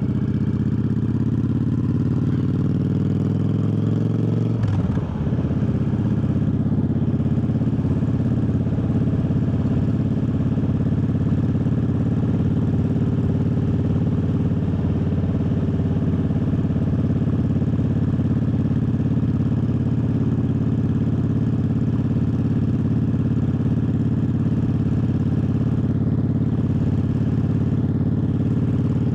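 Triumph Bobber's parallel-twin engine under way, pulling up through the revs, then a quick gear change about five seconds in. After that it holds a steady pitch, cruising at constant speed.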